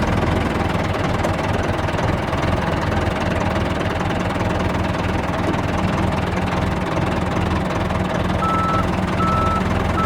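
Vehicle engine running steadily. Near the end a reversing alarm starts beeping at an even pace.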